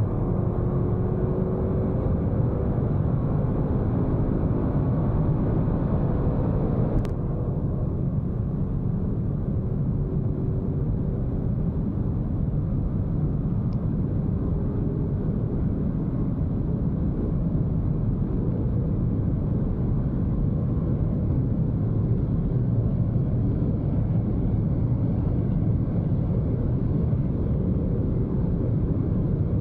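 Audi RS6 C8's 4.0-litre twin-turbo V8 pulling at full throttle at high speed, its note rising slowly in a long gear under a heavy steady roar of wind and tyres. A single sharp click comes about seven seconds in.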